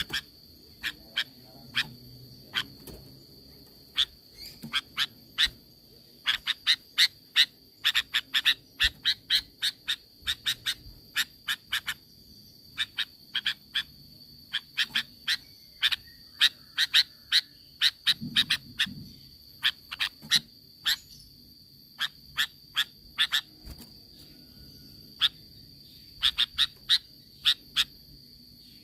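Sooty-headed bulbul (kutilang) calling: short, sharp chirps given in quick irregular runs of several a second, over a steady high tone.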